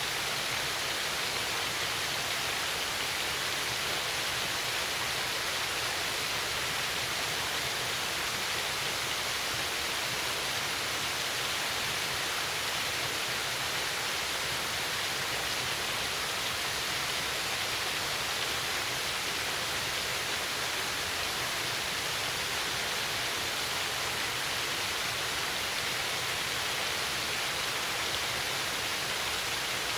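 Small waterfall cascading steadily over a rock ledge beneath a stone overhang: a constant, even rush of falling water with no change.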